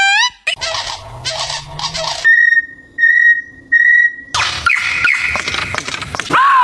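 Birds calling loudly in quick succession, goose-like honking. First come rough noisy calls, then three short clear honking notes about two seconds in, then a flurry of quick gliding calls toward the end.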